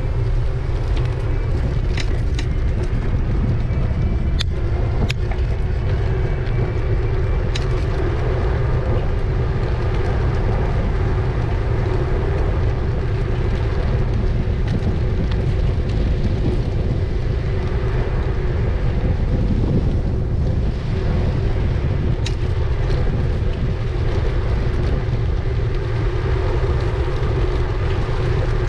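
Riding noise from an e-bike in motion: wind buffeting the microphone as a constant low rumble, with a steady hum and a few sharp clicks from bumps.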